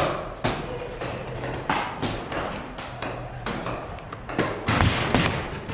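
A run of irregular sharp taps and thuds, a few each second, over a rustling background.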